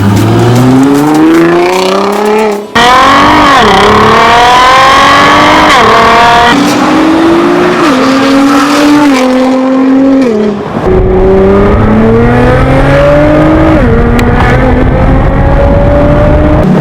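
Nissan GT-R R35 twin-turbo V6 through an Armytrix valvetronic exhaust, loud under hard acceleration. The engine note climbs in pitch and drops sharply at each quick upshift, several gears in a row, with a brief break about two and a half seconds in.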